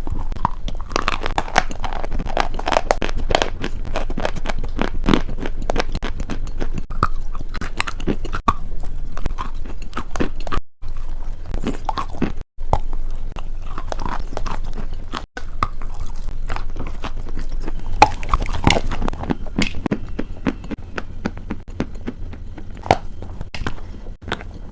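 Close-miked chewing and biting of a crunchy food: dense, irregular crunching and crackling with a few momentary breaks.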